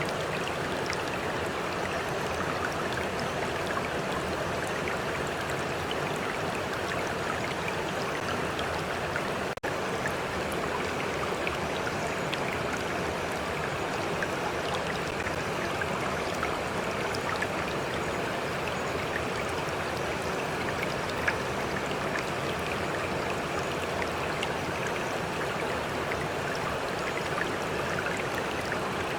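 A stream flowing steadily, with small splashes and trickles over an even rush of water. There is a momentary dropout in the sound about ten seconds in.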